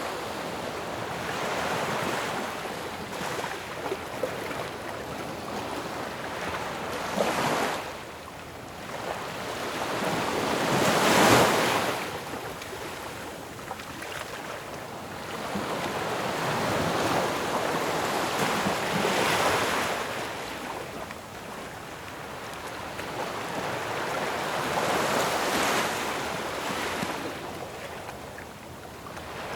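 Ocean waves crashing on a shore in repeated surges, each swelling into a rush of surf and washing back. The loudest crash comes about eleven seconds in, and others follow every six to eight seconds.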